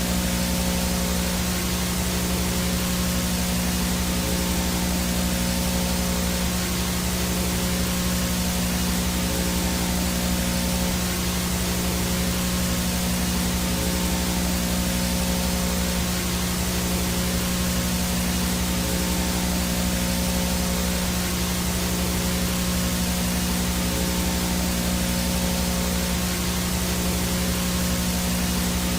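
VHS no-signal static: a steady hiss with a low buzzing hum under it and a faint high-pitched whine, all unchanging.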